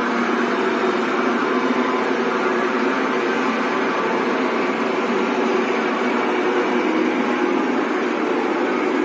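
Beer bottle washing machine running: a steady mechanical hum with a hiss over it.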